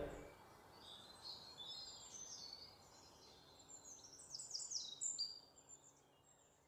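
Faint birdsong: scattered short high chirps and quick downward-sweeping notes, busiest about four to five seconds in, stopping about six seconds in.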